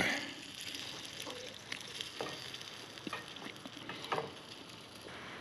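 Pan of thick sausage soup sizzling softly over a campfire, with a few light clicks scattered through it.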